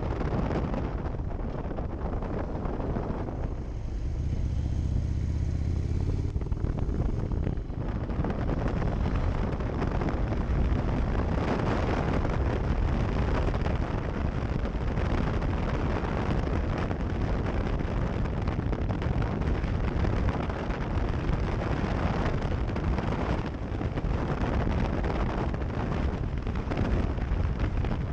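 A moving vehicle's steady wind and road rumble, with a dense hiss over a low drone. Around four to seven seconds in, the hiss thins and a low engine hum comes forward.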